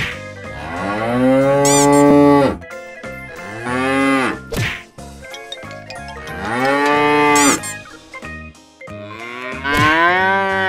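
Cows mooing: four long, low calls one after another, the last one still going at the end.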